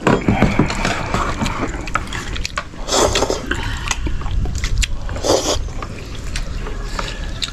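People eating at a meal: chewing, with many short clicks of chopsticks on bowls and two short noisy bursts about three and five seconds in.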